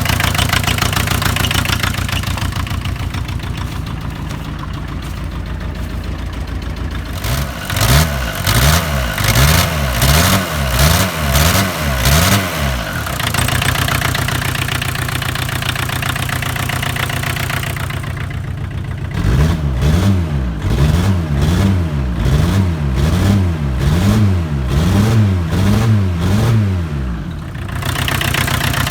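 Small truck engine idling, revved in quick repeated blips of the throttle, about one a second: a run of them a quarter of the way in and a longer run later.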